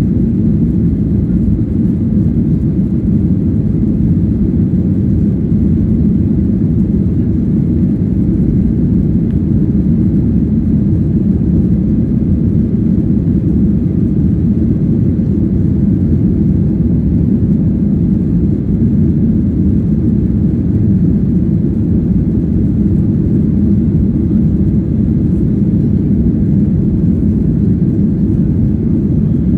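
Steady low cabin roar of a Boeing 737-800 in flight: its CFM56-7B engines and the airflow over the fuselage, heard from inside the passenger cabin.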